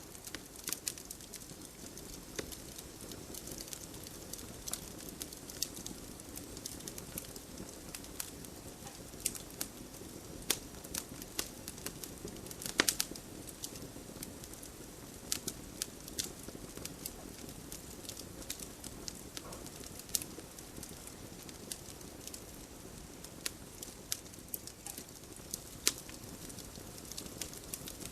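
Wood fire crackling: a steady low hiss and rumble with irregular sharp pops and snaps, a few louder pops scattered through.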